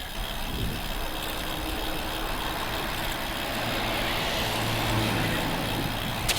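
Wind and road noise from riding a road bicycle, with a motor vehicle's low hum swelling as it passes, loudest about five seconds in.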